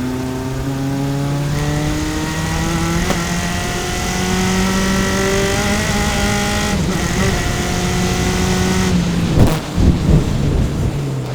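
Single-seater race car engine heard on board, accelerating hard with its pitch climbing, upshifting about three seconds in and again near seven seconds. Near the end the engine note drops and a few sharp, loud bangs sound.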